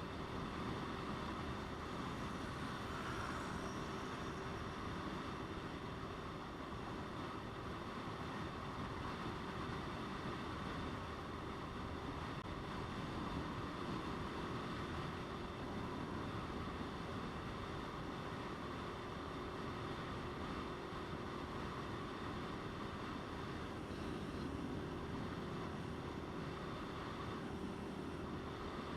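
Motorcycle riding at a steady cruise, its engine holding one even pitch under wind rushing over the microphone.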